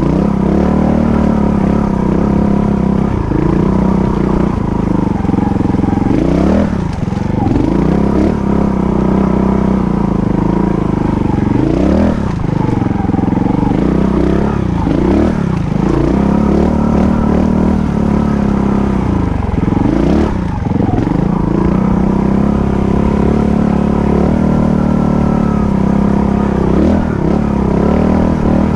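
Dirt bike engine pulling up a steep, rocky trail, its revs rising and falling again and again as the throttle is worked over the rough ground.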